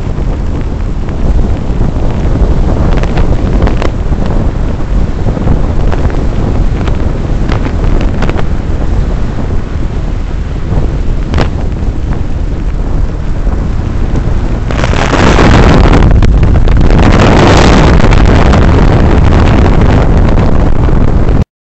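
Nissan S13 convertible running on the move through its new exhaust, a loud low rumble buried in heavy wind buffeting on the microphone. The noise jumps louder about three-quarters of the way through, then cuts off abruptly.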